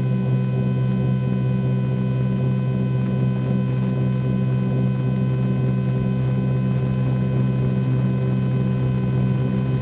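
Twin piston engines of a Cessna 310Q at full takeoff power during the takeoff roll, a steady drone of engine and propeller tones heard from inside the cockpit.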